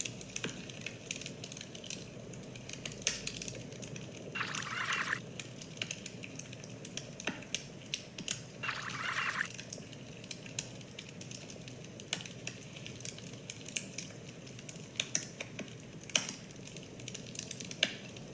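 Steady background noise with scattered light clicks, broken twice by a short high-pitched animal-like call, about four and nine seconds in.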